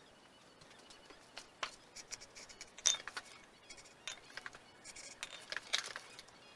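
Irregular light clicks, taps and small scrapes of hand work on parts, the sharpest click about three seconds in.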